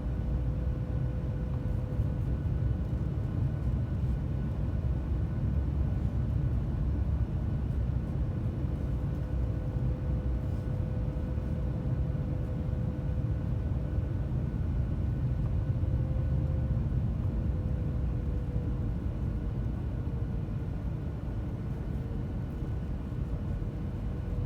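Steady cabin noise inside a Boeing 737-900ER in flight: a low rumble of airflow and its CFM56-7B jet engines, with a steady engine hum that sags slightly in pitch in the second half.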